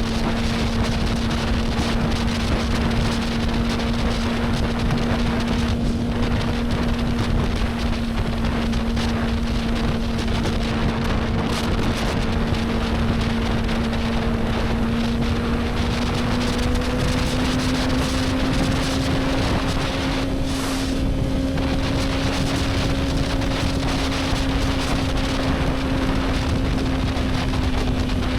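Motorcycle engine running at a steady cruising speed, its pitch rising slightly a little past halfway and then holding, with wind noise on the microphone.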